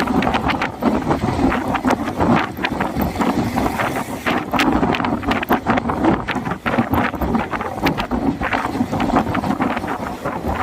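Storm wind gusting across the microphone: a loud, continuous rush with frequent buffeting thumps.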